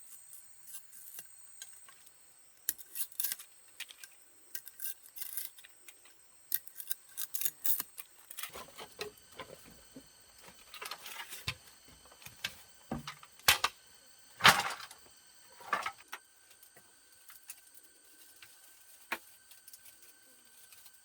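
Irregular clicks, knocks and rustles of objects being handled, busiest in the middle, with the sharpest knock about two-thirds of the way through. Faint steady high tones run underneath.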